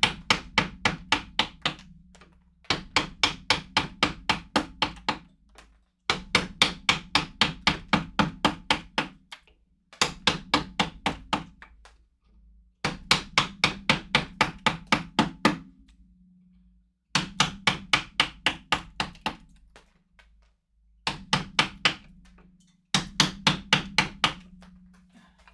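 Mallet driving a carving chisel into a wood block in quick runs of strikes, about five a second, in bursts of two to three seconds with short pauses between.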